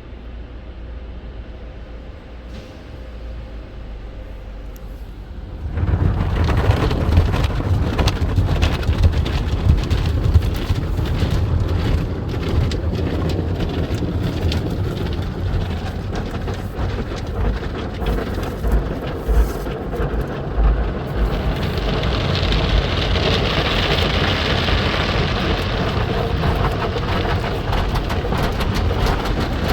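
Belanger FreeStyler automatic car wash spraying water onto a car: a low hum at first, then about six seconds in a loud, steady rush of water starts suddenly and keeps going, turning hissier for a few seconds near the end.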